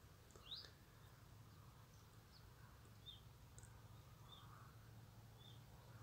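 Faint bird chirps: a rising chirp about half a second in, then short chirps repeating about once a second, over a low steady background hum.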